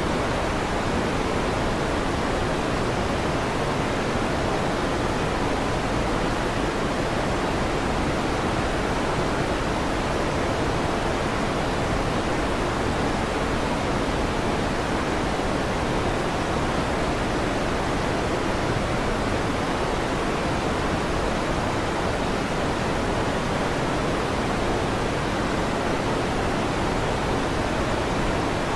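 Steady electric fan noise: an even, unchanging whoosh with no thunderclaps.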